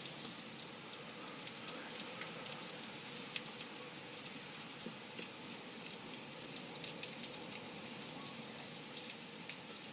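Steady hurricane rain falling, an even hiss with scattered drop ticks.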